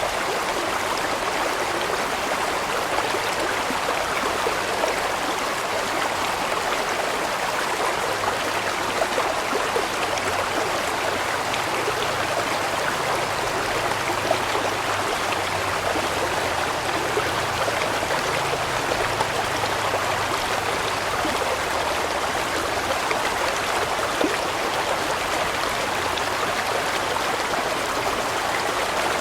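A large mountain stream flowing over rocks, a steady rush of water with small splashes scattered through it.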